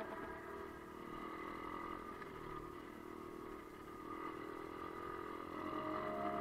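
Pit bike engine running, faint and fairly steady, growing a little louder toward the end.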